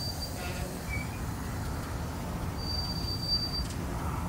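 Freight train hopper cars rolling slowly past with a steady low rumble of steel wheels on rail. A thin, high wheel squeal sounds for about a second just past the middle.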